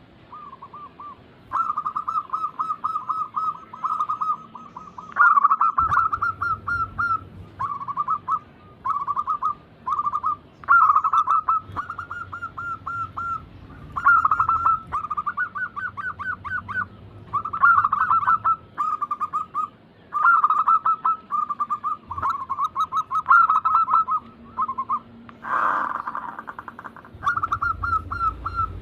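Zebra doves (perkutut) cooing: phrase after phrase of rapid, pulsing coos, each phrase a second or two long with short pauses between. This is the full 'manggung' song used as a lure recording to coax other zebra doves into singing.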